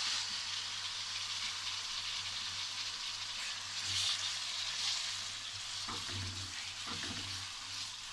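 Raw chicken cubes frying in hot oil with chopped garlic in a nonstick wok, sizzling steadily and easing slightly near the end, while a silicone spatula stirs them.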